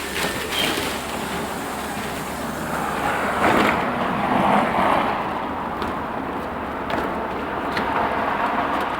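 Steady vehicle and road noise, swelling for a couple of seconds about three seconds in.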